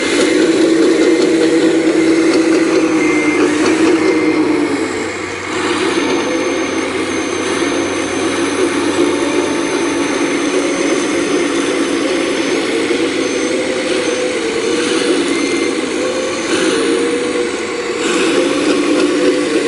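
Full-size excavator engine running under load as it digs, with a steady, slightly wavering pitch that dips briefly about five seconds in.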